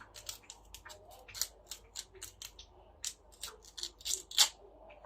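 Knife slicing a carrot into thin pieces: a run of quick, crisp cuts, irregular at about four a second.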